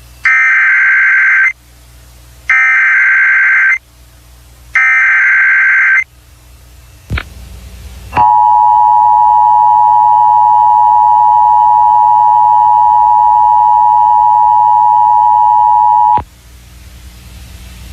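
Emergency Alert System warning tones: three short buzzing data bursts, the SAME header, then a click and the steady two-tone attention signal held for about eight seconds before it cuts off. They announce a National Weather Service severe thunderstorm warning.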